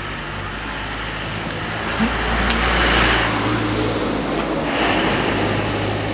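Yamaha FZ6 Fazer 600's inline-four engine running with no exhaust muffler fitted, giving a raw, open-pipe note. It runs steadily and swells louder twice, about halfway through and again near the end.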